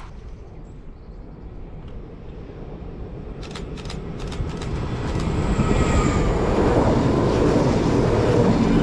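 A train approaching, its rumble growing steadily louder, with a few sharp clicks between about three and a half and four and a half seconds in.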